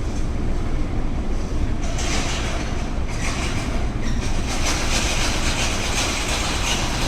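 Steady low rumble of a ferry's engines under way, with a rushing hiss of wind and water that swells about two seconds in and stays strong until near the end.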